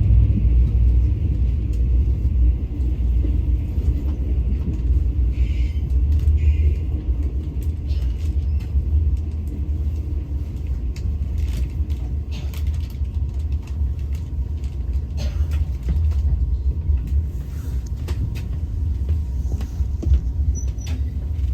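Passenger train cabin noise: a steady low rumble of the car rolling slowly on the track, with faint scattered clicks and creaks.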